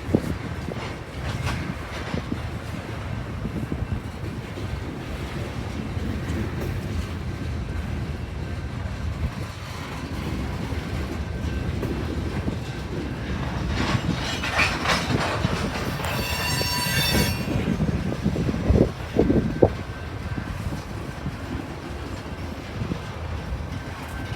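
Train rolling past with a steady low rumble and its wheels clicking over the rail joints, with a brief high-pitched wheel squeal about two-thirds of the way through.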